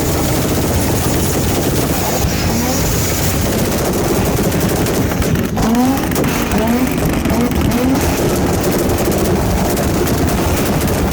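Car engine held on a two-step launch-control rev limiter, banging out a rapid, continuous machine-gun crackle of exhaust pops.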